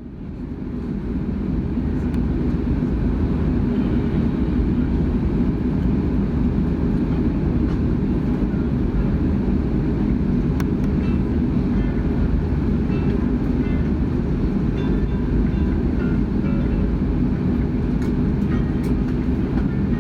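Steady low rumble of a moving vehicle, fading in over the first second or two, with faint light clicks and brief thin tones above it.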